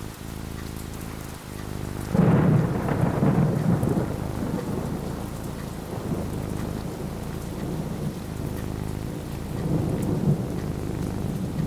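Steady rain falling, with a clap of thunder about two seconds in that rumbles on for a couple of seconds, and a second, softer roll of thunder near the end.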